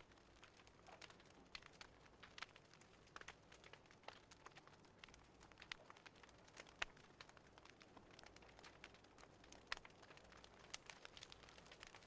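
Fireplace fire crackling faintly, with irregular small pops and snaps; two of the sharpest come about seven and ten seconds in.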